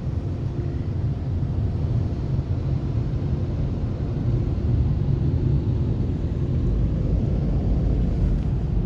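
Onboard blower dryer of a Ryko SoftGloss XS2 in-bay car wash running on the gantry during the drying pass, a steady rushing rumble that grows fuller in the low end near the end.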